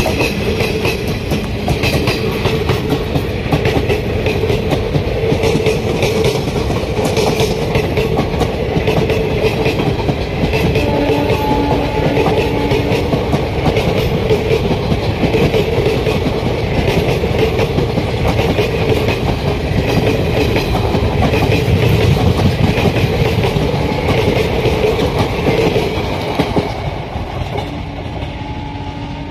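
Passenger train running past, its wheels clattering over the rail joints in a steady rush of rail noise that eases off near the end.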